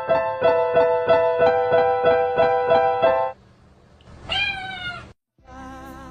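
Keyboard music with evenly repeating notes stops about three seconds in; then a domestic cat meows once, a drawn-out wavering call of about a second. Different music starts near the end.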